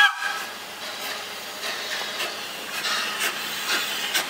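A Taiwan Railways train running past on the rails, sped up to double speed: a steady rushing noise with sharp wheel clicks over the rail joints about twice a second. The end of a train horn blast cuts off at the very start.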